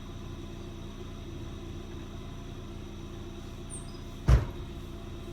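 Pickup truck's engine running steadily, heard from inside the cab, with one sharp, heavy thump about four seconds in.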